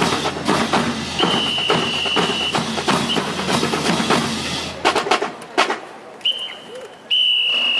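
Drill team performance: music with a drum beat, cut off about five seconds in, then a few sharp clacks. Over it a high whistle is blown in long steady blasts, the last starting near the end.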